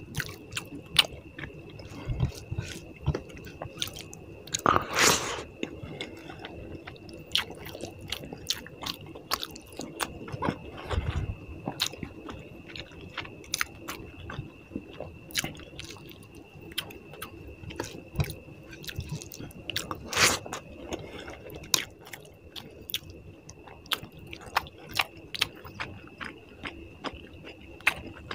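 Close-up mouth sounds of a person eating puti fish curry with rice: steady chewing with frequent wet smacks and clicks. Two louder, longer sounds come about five seconds in and again about twenty seconds in. A faint steady high tone runs underneath.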